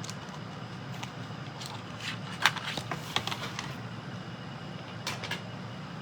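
Scattered light clicks and scrapes of hands handling a die-cutting machine's plates, a metal die and cut cardstock, with a cluster of sharper clicks in the middle and another click near the end.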